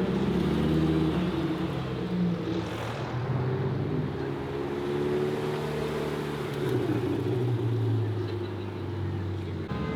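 A car engine running steadily, its pitch drifting slightly up and down, with the sound changing abruptly just before the end.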